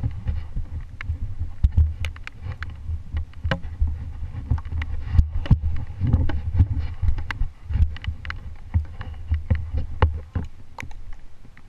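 Dirt bike engine running low with an uneven rumble, overlaid with many sharp taps and knocks.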